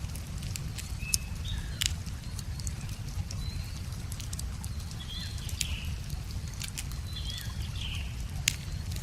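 Wood fire crackling with scattered sharp pops, a few louder ones about a second in, near two seconds and near the end, over a steady low rumble of flowing river water. Small birds chirp briefly several times.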